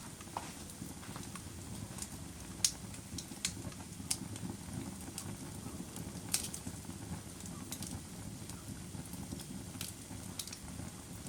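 Wood fire burning in a fireplace: a steady low rumble of flames with sharp crackles and pops at irregular intervals, two of them louder than the rest.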